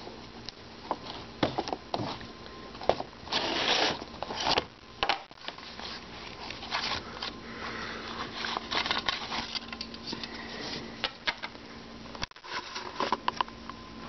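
Handling noise from HO scale model freight cars and their packaging: irregular rustles, light clicks and taps, over a faint steady low hum.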